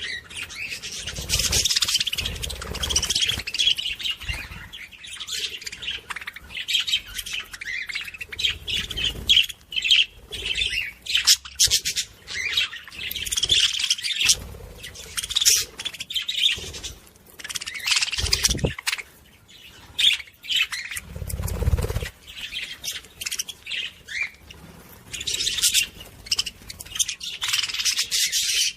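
A group of small pet parrots chirping and chattering busily and without a break. Short, quick calls overlap throughout. A couple of low thuds sound about two-thirds of the way in.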